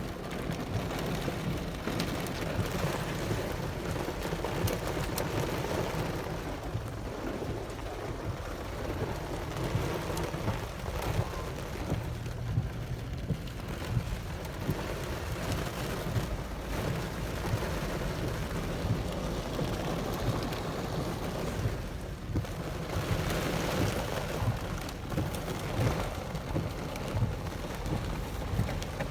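Rain falling steadily during a rain storm, a dense patter with many small drop spatters over a continuous low rumble.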